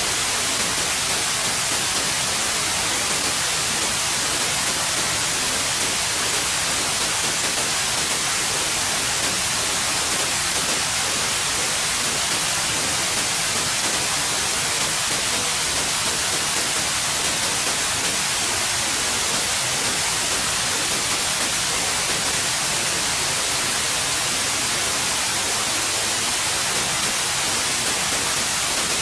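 Steady, unchanging synthetic white noise: an even hiss, strongest in the high frequencies.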